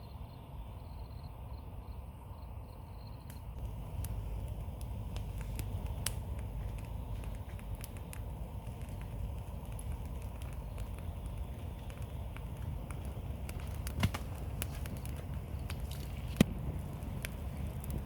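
Campfire of wet branches burning, crackling with scattered sharp pops over a low steady rumble. Two much louder pops come in the last few seconds.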